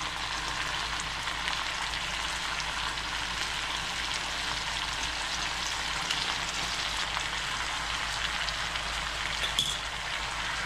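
Chicken thighs sizzling in a Dutch oven with sherry vinegar and soy sauce reducing around them: a steady crackling hiss. A brief tap comes near the end.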